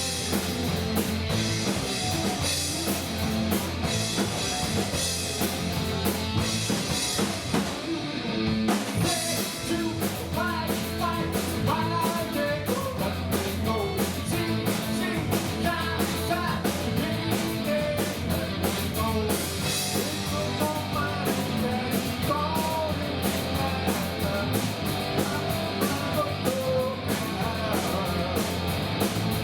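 Rock band playing live: drum kit, electric guitars and bass, with a voice singing over them for much of the stretch.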